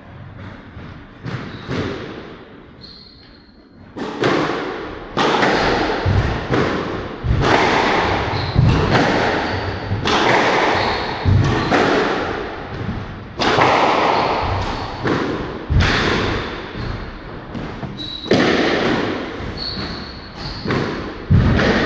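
Squash rally: the ball cracking off racquets and the court walls, loud sharp hits about once a second with echo, after a few quieter bounces in the first few seconds.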